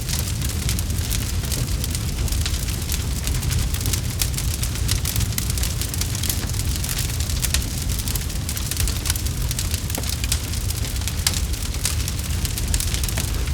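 Campfire crackling: a dense, steady patter of small pops and snaps over a low rumble of burning wood.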